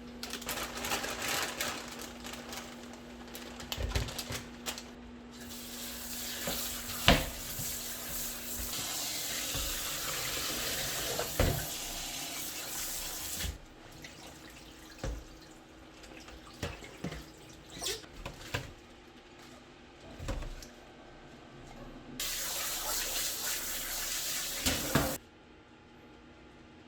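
Kitchen tap running into a sink in two spells, a long one and then a shorter one near the end, with knocks and clinks of things being handled in between.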